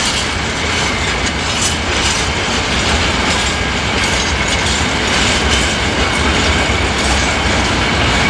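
Freight train wagons rolling past, their steel wheels running and clattering on the rails in a steady, loud rush.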